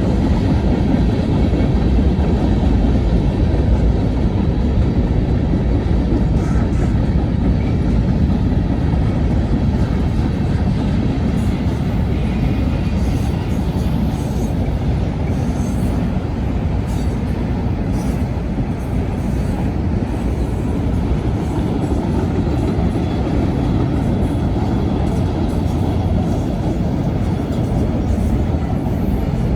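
Manifest freight train's cars rolling past: a steady rumble of steel wheels on rail.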